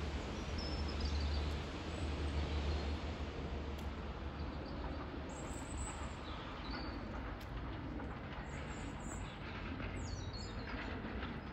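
Station ambience: a low rumble, most likely the train that has just passed, eases away over the first few seconds, leaving a steady background noise. Small birds chirp faintly and high-pitched, now and then, through the second half.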